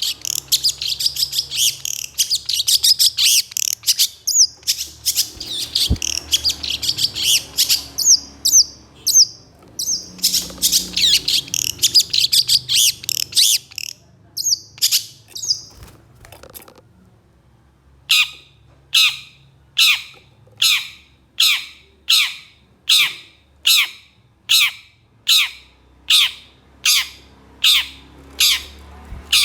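Long-tailed shrike (cendet) singing: a fast, dense run of harsh chattering and rough 'shot' notes for about fourteen seconds. After a short pause it gives a steady series of harsh repeated calls, about one and a half a second.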